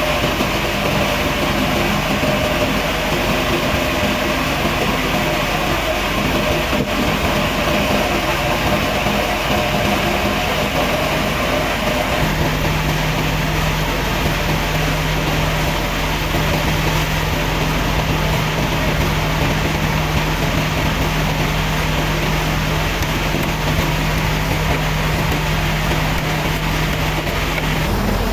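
Sawmill machinery running steadily with a continuous drone. About twelve seconds in, its tone shifts to a lower hum.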